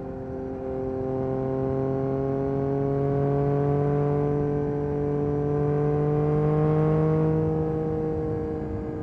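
Yamaha MT-09 SP's 890 cc inline-three through an Akrapovic Carbon Racing exhaust, pulling steadily in one gear with its note rising slowly for several seconds, then easing off near the end as the throttle is rolled back.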